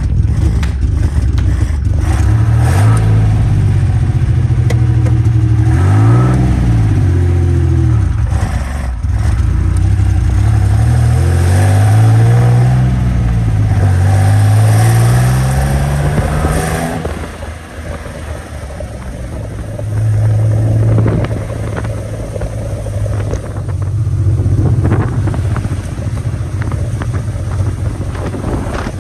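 Citroën SM's Maserati V6 engine running, blipped up and back down several times through the first half, then settling to a steadier idle from about two-thirds of the way in.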